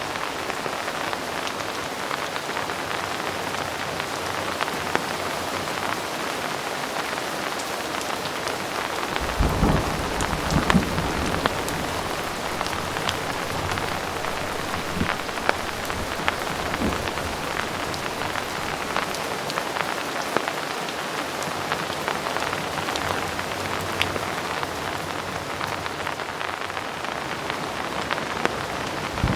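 Heavy rain falling steadily, with single drops ticking close by. About nine seconds in, a low rumble of thunder comes in and fades away over a few seconds.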